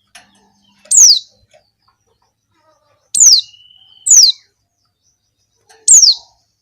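Female white-eye (pleci) calling: four short, high, thin notes, each sliding quickly down in pitch, spaced a second or two apart. This is the call of a female in breeding condition that keepers use to draw male white-eyes to sing.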